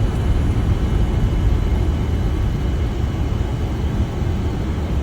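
Steady rumble of airflow and engines on a Boeing 747-400's flight deck during final approach, with a faint steady high-pitched tone above it.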